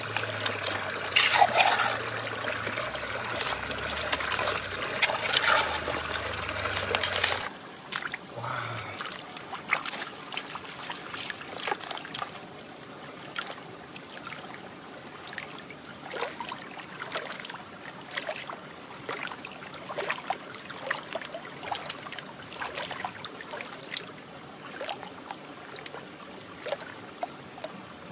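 Water trickling and splashing as sand and gravel are washed in a gold pan. About seven and a half seconds in it drops abruptly quieter, leaving a low trickle with scattered light clicks.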